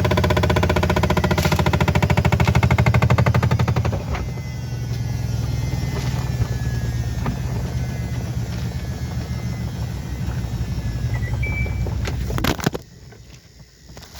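Washing machine running with a fast, even rattle of something knocking inside the drum. It eases off about four seconds in and cuts out near the end with a couple of knocks.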